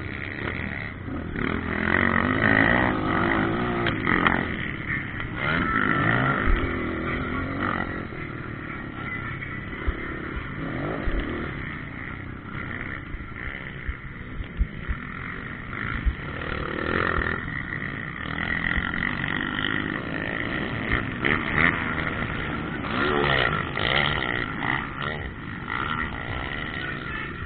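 Motocross bikes' engines revving up and down as they ride the track, with repeated rising and falling sweeps in pitch and a few short low knocks.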